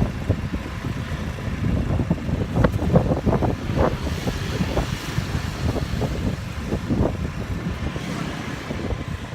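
Riding a motorbike through city traffic: steady engine and road rumble, with wind buffeting the microphone in irregular gusts.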